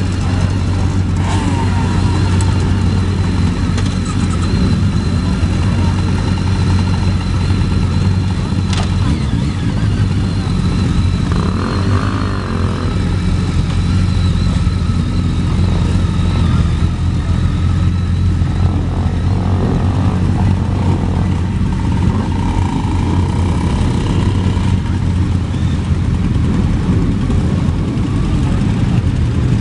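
Many motorcycle engines running together in a slow-moving parade, a loud, steady engine sound with no break.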